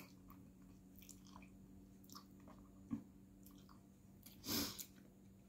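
Quiet mouth sounds of a person eating spaghetti: soft chewing with small wet clicks, and a short louder noisy sound about four and a half seconds in, over a faint steady hum.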